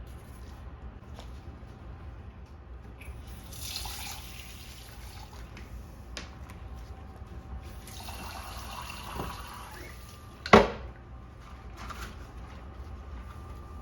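Kitchen tap running in two short spells, water splashing into the sink, over a low steady hum. A single sharp knock, the loudest sound, comes about three quarters of the way through.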